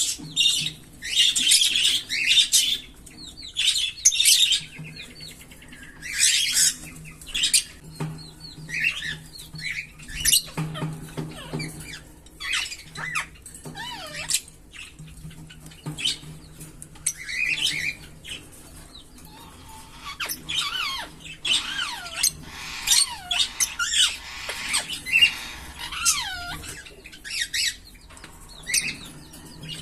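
A pair of green Fischer's lovebirds chirping and squawking in quick, irregular bursts, with a run of rising-and-falling whistled notes about two-thirds of the way through.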